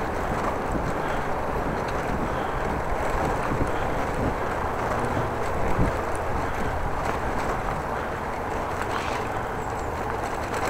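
Steady wind rush on the microphone of a moving bicycle, with the ride's road noise underneath.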